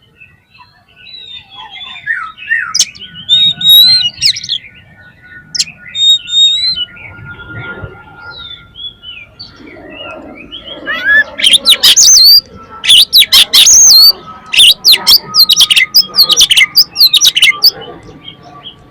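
Oriental magpie-robin singing: varied whistled phrases and chirps, sparse at first, then from about eleven seconds in a dense run of loud, rapid notes.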